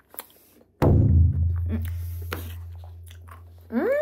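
A deep bass boom sound effect hits suddenly about a second in and fades away over about three seconds, with a few light clicks around it. A short pitched vocal sound that rises and falls begins near the end.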